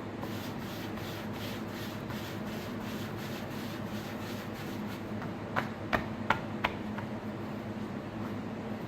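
Pide dough being worked out by hand on a board: repeated rubbing strokes, with a few light knocks about six seconds in.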